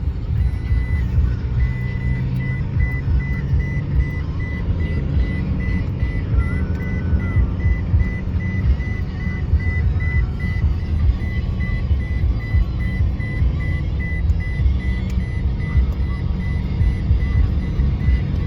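A motor vehicle's engine running with a steady low rumble, and a high thin beeping tone sounding over it almost without a break.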